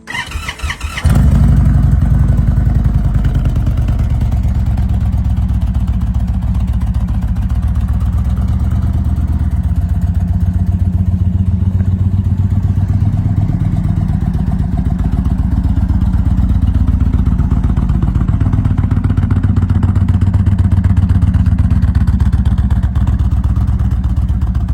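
Indian Thunderstroke 116 air-cooled V-twin of a 2023 Chieftain Dark Horse starting about a second in, then running with a steady, pulsing low rumble.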